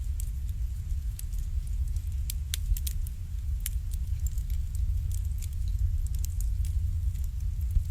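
Wood fire burning in an irori, a Japanese sunken hearth: irregular sharp crackles and pops over a steady low rumble.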